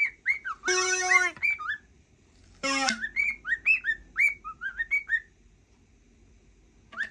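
Cockatiel whistling a quick run of short rising notes, broken by two brief buzzy sounds about one and three seconds in. The whistling stops a little after five seconds and starts again right at the end.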